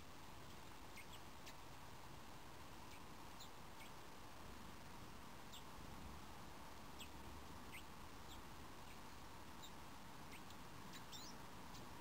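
Small garden birds giving faint, short, high-pitched calls, about a dozen scattered single notes with one longer wavering note near the end, over a steady faint hiss.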